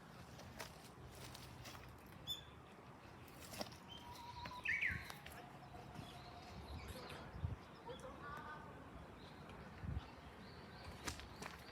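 Faint birdsong of a Japanese bush warbler (uguisu): a short held whistle about four seconds in, then a quick higher phrase, among a few brief scattered chirps. A few soft low knocks.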